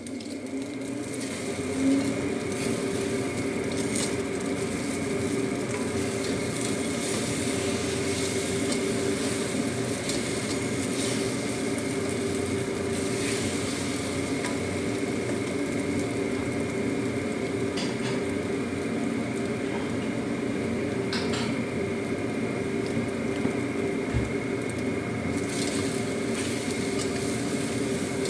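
Egg and luffa stir-frying in a wok: a steady sizzle, with the spatula scraping and tapping the pan now and then over a steady hum.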